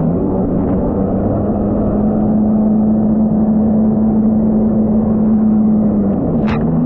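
Jet ski engine running at steady throttle, its note holding level and then easing off near the end, with a brief sharp noise just before the end.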